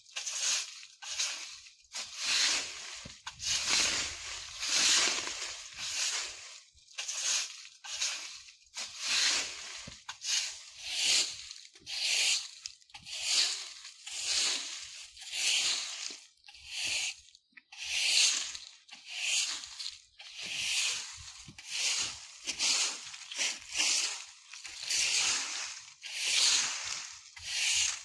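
A broom sweeping dry fallen leaves across the ground in steady strokes, about one a second. Each stroke is a scratchy rustle and crunch of leaves.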